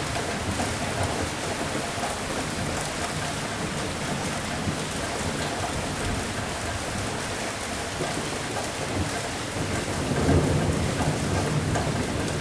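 Steady heavy rain falling, with a low rumble of thunder swelling about three-quarters of the way through and fading near the end.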